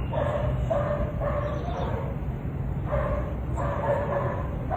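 A dog barking repeatedly: about five barks in a quick run, a short pause, then about four more, over a steady low rumble.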